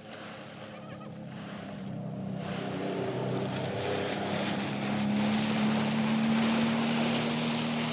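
An engine running with a steady hum that edges up in pitch, growing louder, with a rushing hiss that swells in about two and a half seconds in.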